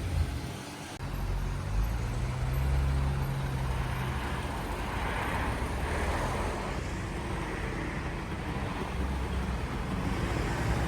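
Road traffic noise: vehicles running steadily, with one passing and swelling in the middle.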